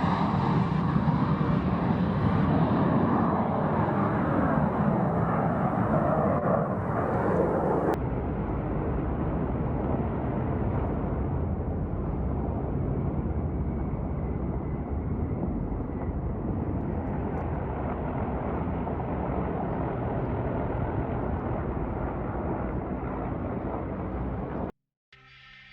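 Aircraft engine noise: a loud rushing roar for about eight seconds, then an abrupt change to a steadier rumble that cuts off shortly before the end.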